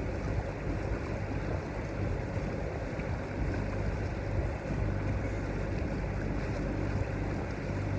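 Catamaran's engines running with a steady low hum under the rush of wind and water around the boat.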